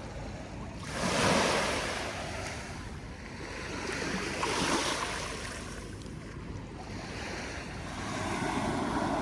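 Small waves breaking on a sandy beach, the surf swelling and easing three times, about every three to four seconds.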